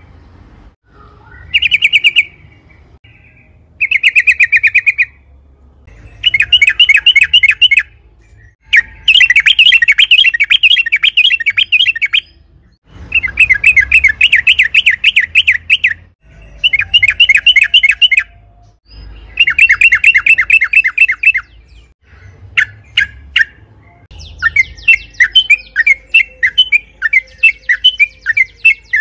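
Yellow-vented bulbul (trucukan) singing: repeated bursts of fast, bubbling chattering notes, each lasting one to three seconds with short pauses between. Near the end the song breaks into quicker separate notes.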